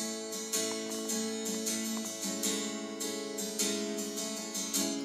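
Acoustic guitar strummed in a steady rhythm, its chords ringing between strokes as it accompanies a worship song.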